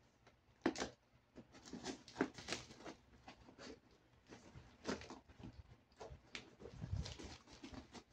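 Scissors snipping through packaging tape on a plastic-wrapped parcel, the plastic crinkling and rustling in short, irregular crackles.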